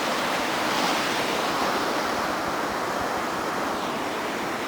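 Steady rushing noise of beach surf and wind on the microphone, easing slightly towards the end.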